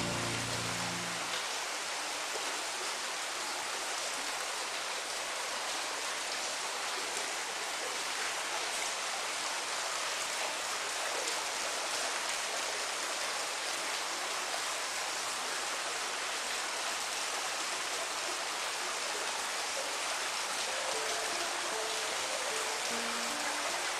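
Steady rain, an even hiss of falling water. The flute music drops out about a second in and faint notes come back near the end.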